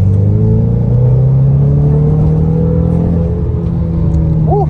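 2019 Ford Mustang EcoBoost's 2.3-litre turbocharged four-cylinder pulling hard under acceleration in normal drive mode, heard from inside the cabin. The engine note climbs steadily in pitch, with a change about three seconds in.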